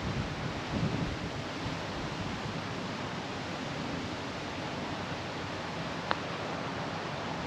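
Strong steady wind rushing over the microphone, with one short faint click about six seconds in.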